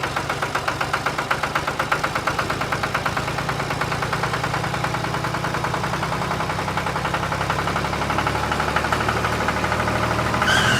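Tractor engine idling steadily with a fast, even chug.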